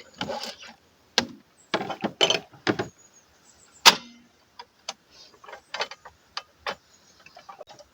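Irregular clicks, knocks and rustling of objects being handled, with one sharp click about four seconds in.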